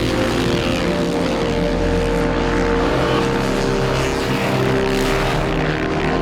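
Camera drone's propellers humming steadily in several held tones.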